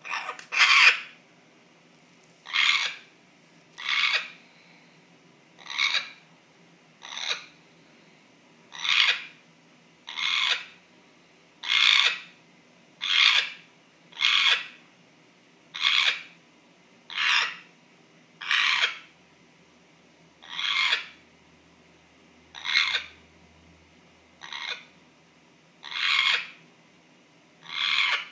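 African grey parrot making a short, scratchy call over and over at a steady pace, about one every second and a half, sometimes doubled. This is the strange repeated noise that its owner cannot identify.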